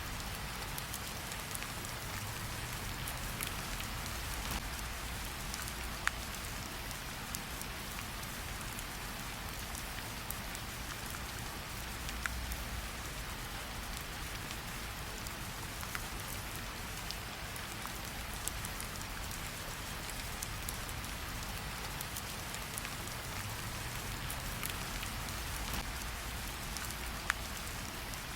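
Steady rain falling, with a few sharp pops of a crackling campfire now and then.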